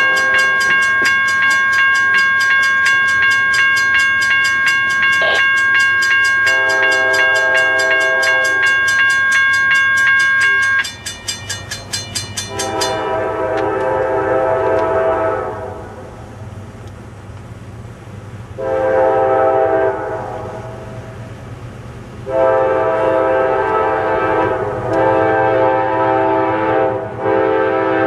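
Diesel locomotive horn on a CSX freight sounding a series of crossing blasts, long, long, short, then a long one held on, while a grade crossing bell clangs rapidly and stops about halfway through.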